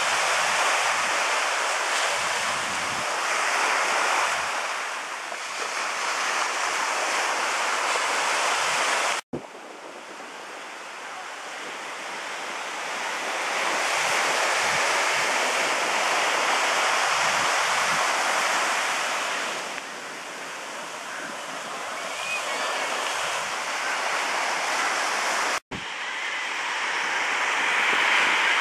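Ocean surf washing ashore, swelling and fading in long surges, with wind buffeting the microphone. The sound cuts off abruptly twice, about nine seconds in and near the end, where the recording is edited.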